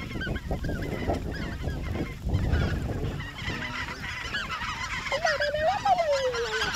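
A flock of white-fronted geese (specks) calling, many short overlapping high yelps, with a longer call that rises and then glides down near the end, over a low rumble of wind noise.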